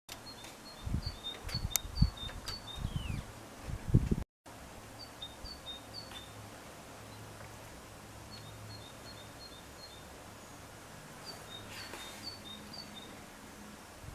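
A small bird chirping in repeated runs of short, high two-note calls over faint outdoor background noise, with low thumps on the microphone during the first four seconds.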